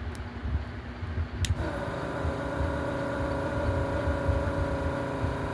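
Yihua 948 desoldering station's built-in vacuum pump switching on with a click about one and a half seconds in, then running with a steady hum. The owner says it barely sucks any solder.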